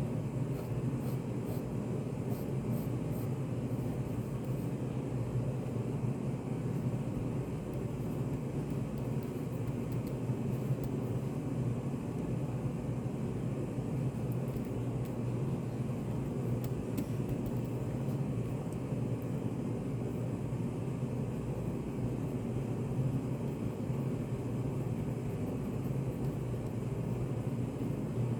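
Study café room ambience: a steady low hum with no speech, and a few faint light ticks in the first few seconds.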